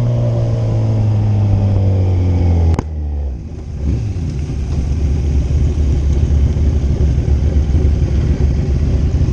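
Kawasaki Z1000's inline-four engine on the move, its pitch falling slowly as it eases off for about three seconds. It then breaks off abruptly into a steadier, rougher low rumble with wind.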